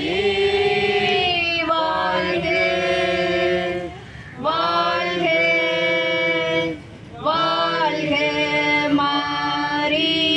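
A group of voices singing a Tamil hymn of praise to Mary in long, held notes, breaking off briefly about four and seven seconds in.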